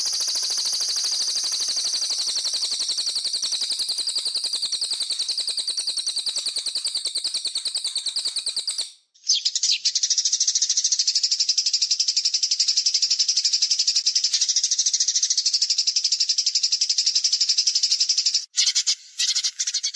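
Recorded songbird song of the kind used to tutor cage birds: a long, very rapid, high-pitched buzzing trill lasting about nine seconds. It breaks off sharply, then a second trill of about the same length follows, and it turns choppy near the end.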